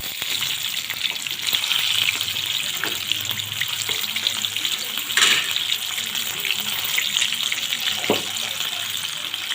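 Crispy chicken frying in hot oil: a steady, dense crackling sizzle, with a couple of brief sharp clicks midway and near the end.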